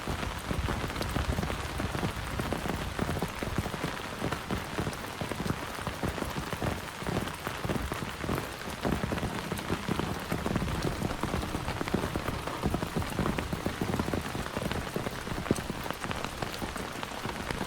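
Heavy rain falling steadily, a dense even rush made of countless individual drop hits.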